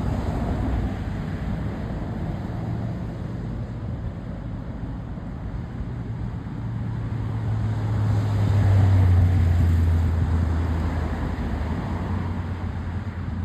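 A jet airliner's engines make a low, steady rumble. It swells to its loudest around eight or nine seconds in, then eases off.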